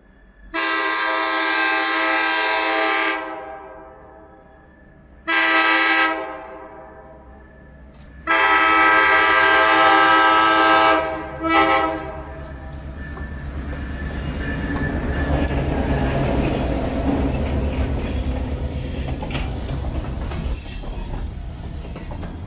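EMD F7 diesel locomotive sounding its air horn four times as it approaches: long, short, long, short. The engine and the rolling train then rumble past, louder as it nears, with wheel clicks over the rail joints near the end.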